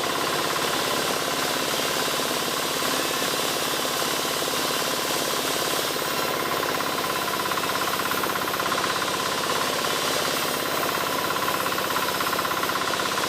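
Engine-powered wood saw running steadily, cutting albasia timber, with a fast, even pulsing beat.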